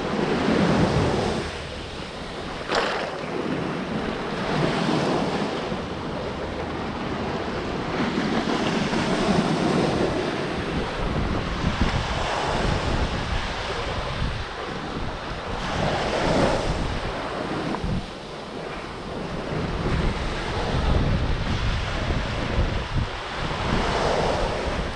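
Gulf of Mexico surf washing up on a sandy beach, swelling and easing every few seconds, with wind buffeting the microphone in a low rumble.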